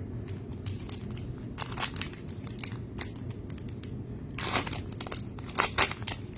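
Plastic trading-card pack wrappers crinkling as cards and packs are handled, with scattered short crackles, a longer, louder crinkle about four and a half seconds in and a few sharp crinkles near the end.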